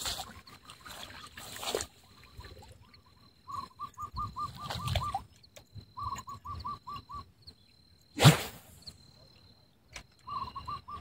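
A bird calling in three runs of short, quick, evenly spaced notes, about seven a second. A single loud thump comes about eight seconds in.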